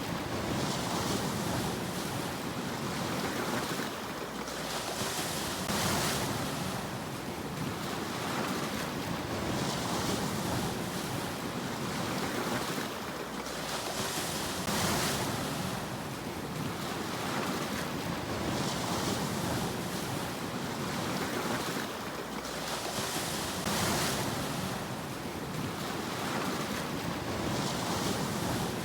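Sea waves breaking and washing up a shore, a new wave surging in about every four to five seconds over a steady rush of surf.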